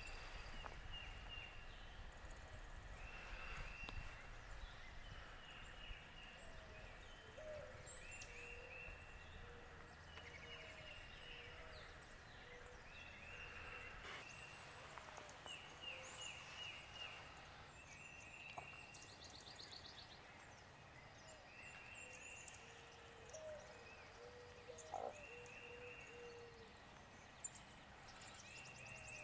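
Faint birdsong: short chirping phrases repeated every second or two, with scattered lower calls under them.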